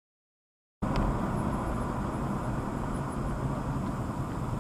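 Digital silence for under a second, then, starting abruptly, the steady rumble of a moving car recorded by a dash cam: engine and tyre-on-road noise, even in level.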